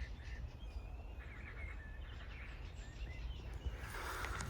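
Faint, scattered bird chirps over a steady low rumble of wind on the microphone. A louder rush of noise comes in near the end.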